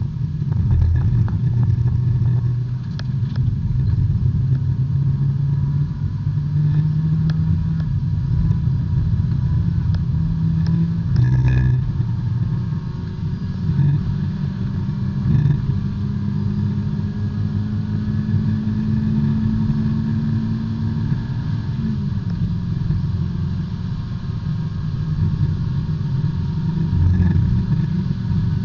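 In-car sound of a B-Spec class race car's engine running hard under load. The pitch climbs slowly for several seconds and drops suddenly about three-quarters of the way through, with a brief clatter just before the middle.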